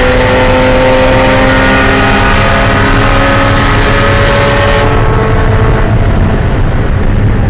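Mazda Miata's 1.8-litre four-cylinder engine pulling under load, its pitch slowly rising, over a loud broad hiss. About five seconds in, the hiss drops away suddenly and the engine note fades soon after.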